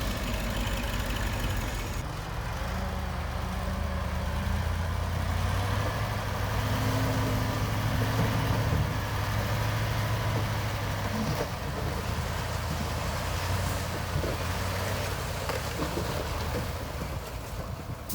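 Heavy diesel engine of an earthmoving machine running steadily, its low drone rising a little in pitch and loudness for a few seconds midway.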